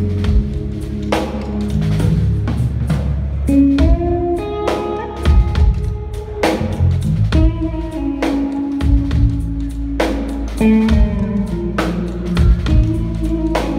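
Live band music: an electric guitar playing held, melodic lead notes over a drum kit, with frequent drum hits.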